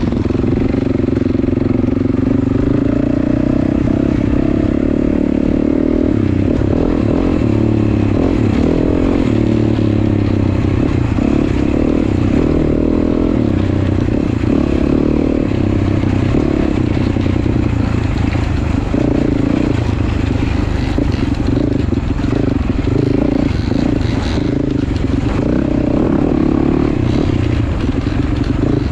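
Motorcycle engine running while riding, its pitch rising a few seconds in and then shifting up and down with the throttle, over steady road and wind noise.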